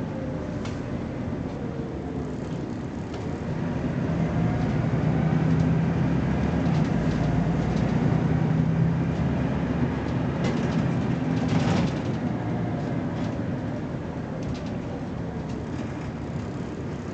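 BMC Belde 220-SLF city bus's diesel engine pulling away under acceleration. It grows louder about four seconds in and eases off around twelve seconds, with a few short rattles near the easing off.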